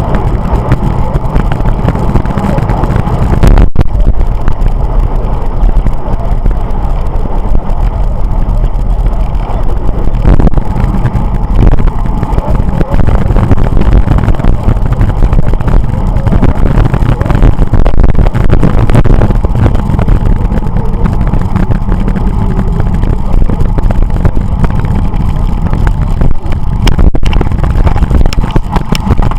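Continuous loud rumble of wind buffeting and road noise on the microphone of a camera riding along on a bicycle.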